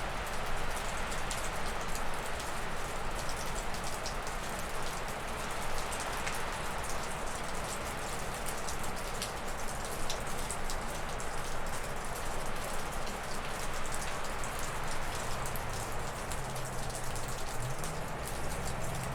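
Wind rushing steadily through spruce and birch trees, with meltwater dripping off a roof as a constant patter of small ticks. A faint low drone comes in near the end.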